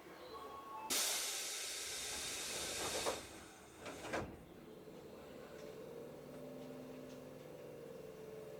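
Tobu 8000-series train at a station before departure: a loud burst of compressed-air hiss for about two seconds, then two thuds about a second apart as the doors shut. A quieter steady hum follows.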